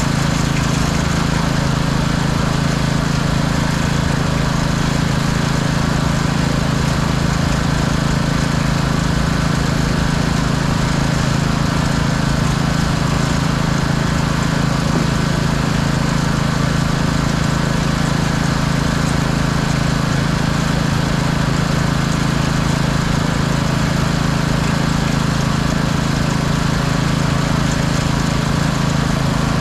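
Pressure washer's small engine running steadily at a constant speed.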